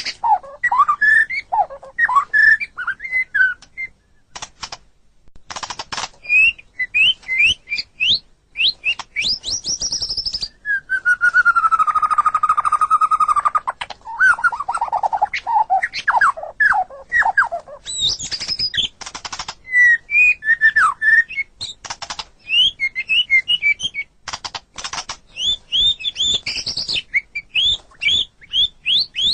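White-rumped shama (murai batu) singing a long, varied song of quick whistled phrases and sweeping notes mixed with sharp clicking notes, with one longer held, harsher note around the middle.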